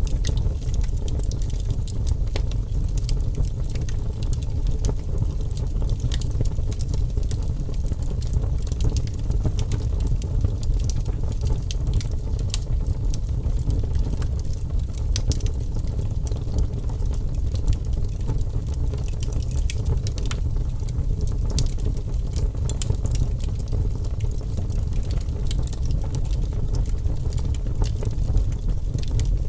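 Wood fire burning in a fireplace: frequent sharp crackles and pops over a steady low rumble.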